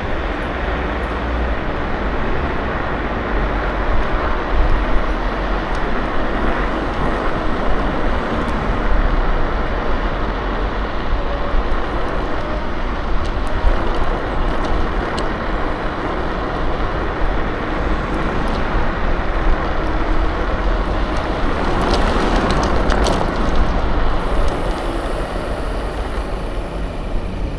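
Steady rushing noise of riding a KuKirin G2 electric scooter: wind on the action camera's microphone and tyre noise on the road. A few light clicks come about three-quarters of the way through.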